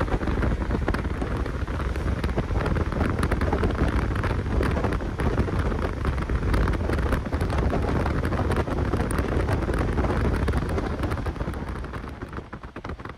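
Train running noise from a sleeping car crossing a bridge at speed: a loud, steady rumble of wheels on the rails with rapid rattles and clicks, and wind buffeting the microphone. It drops noticeably quieter near the end.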